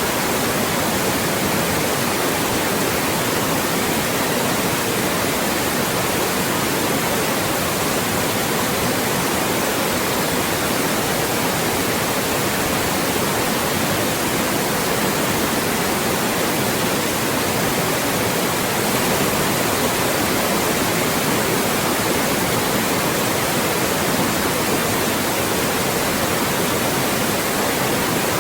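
Loud, steady white noise: an even hiss across the whole range, unchanging.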